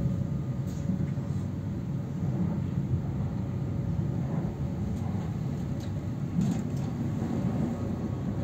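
Steady low rumble of a passenger train running, heard from inside the carriage, with a few faint clicks.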